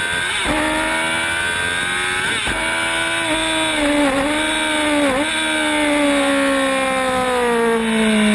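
Sport motorcycle engine at high revs, heard from on board: the pitch climbs with two quick upshifts in the first couple of seconds, dips briefly twice, then falls steadily as the bike slows for a corner.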